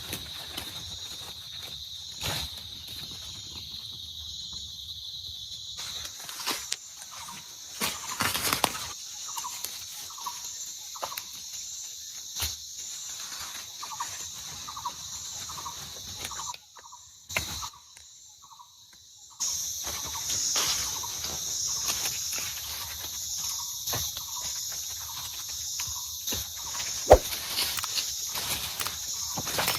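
Tropical forest ambience: a steady high-pitched chorus of insects, with scattered ticks and drips and, past the first third, a run of short repeated calls from an animal. The chorus cuts out for a few seconds after the middle and comes back louder.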